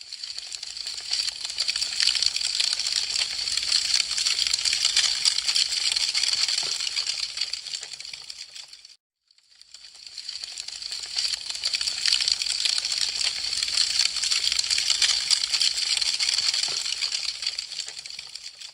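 Wood fire crackling: a dense, fast run of small crackles and pops. It builds, fades to a moment of silence about halfway through, then builds again.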